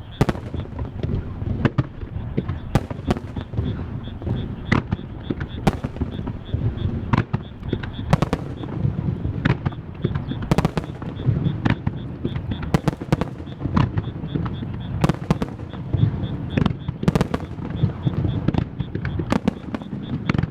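Japanese starmine fireworks barrage: a rapid run of shell bursts, many sharp bangs over a continuous rolling rumble of booms.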